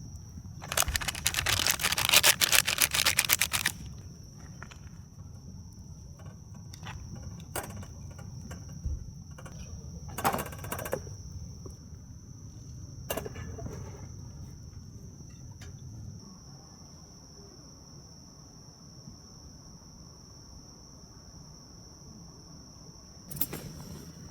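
Steady high-pitched chirring of insects, with rustling and crackling handling noises over it. The loudest is a dense crackling burst about a second in that lasts some three seconds; shorter ones come about ten seconds in and near the end, with scattered clicks between.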